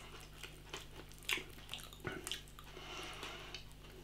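A person chewing a mouthful of chunky oven chip: faint wet mouth clicks and smacks at irregular intervals.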